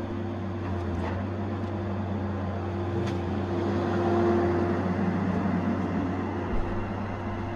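Tigercat 870C feller buncher's diesel engine running steadily under work, a continuous drone with a steady hum that swells slightly about halfway through.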